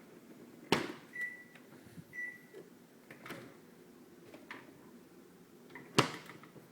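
Two short high beeps about a second apart from a KitchenAid KSC24C8EYY refrigerator's door alarm, which signals 'door open' although the doors are shut: a fault in the unit. Two sharp thumps, one just before the beeps and one near the end, with smaller knocks between.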